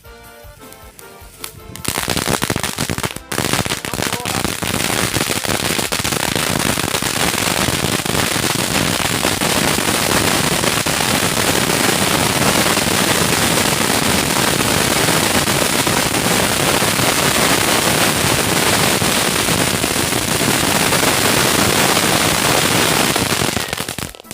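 A ground firework going off in a dense, continuous rapid crackling and spraying that starts about two seconds in, falters briefly, then holds steady for some twenty seconds before cutting off near the end.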